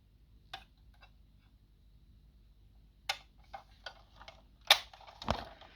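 Light clicks and taps of small die-cast model vans being handled, their doors worked open: a single click about half a second in, then a run of irregular clicks in the last few seconds, the sharpest near the end.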